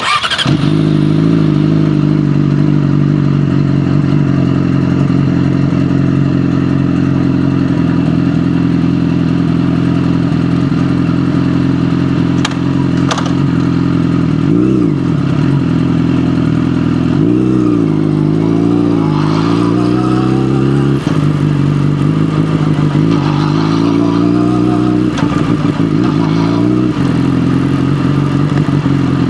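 Yamaha motorcycle with an SC-Project aftermarket exhaust starting up and then idling steadily, with a short throttle blip about halfway through and a few more in quick succession a few seconds later.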